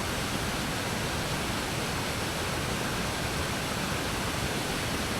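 Waterfall pouring steadily: an even, unchanging water noise spread from deep to high pitches.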